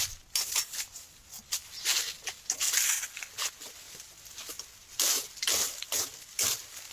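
Irregular crunching and rustling of dry brush, in uneven bursts, busiest about two seconds in and again around five to six and a half seconds.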